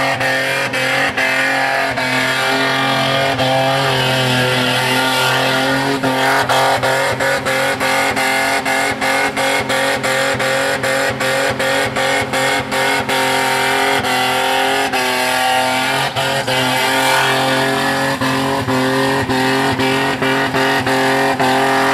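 Holden VN Commodore's 3.8-litre V6 held at high revs through a burnout, rear tyres spinning; the engine note stays steady with slight swells and is broken by many brief dips.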